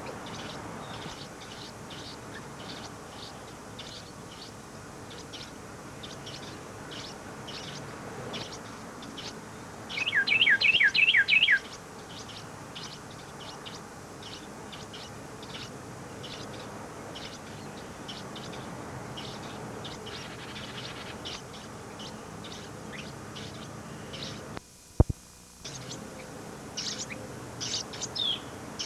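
Small birds chirping: a steady run of short, high chirps about two a second, and about ten seconds in a loud quick series of five falling notes. Near the end the chirps grow louder, after the sound drops out for about a second with a sharp click.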